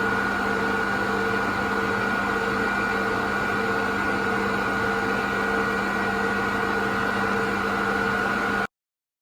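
A metalworking machine tool running steadily, a constant motor hum and whine with no change in speed, cutting off abruptly near the end.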